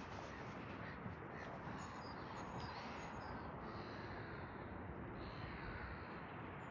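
Birds calling over a steady outdoor background noise.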